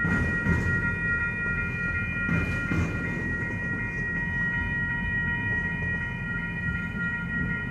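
Freight train cars rolling past with a steady low rumble and a few wheel clunks over the rail joints. A thin, steady high-pitched squeal rings throughout.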